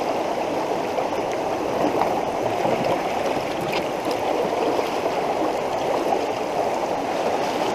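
Rain-swollen creek rushing past in flood, a steady dense roar of fast water.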